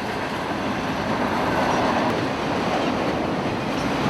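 CSX freight train rolling past, its cars' wheels running on the rails in a steady noise.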